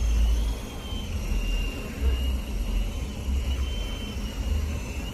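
Toy remote-control helicopter's small electric motor and rotors whining in flight, the pitch wavering slightly up and down, over repeated low buffeting on the microphone.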